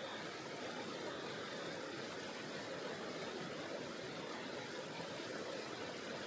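Tonghou River's flowing water: a steady, even rush, mountain stream water running over rocks.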